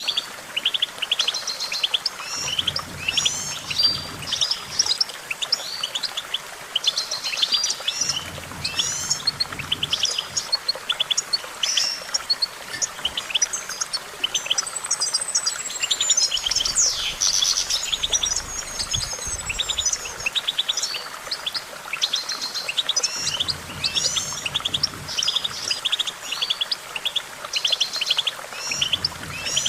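European goldfinch singing continuously: a fast, twittering song of rapid trills, chirps and short sweeping whistles, with a denser run of high sweeping notes in the middle.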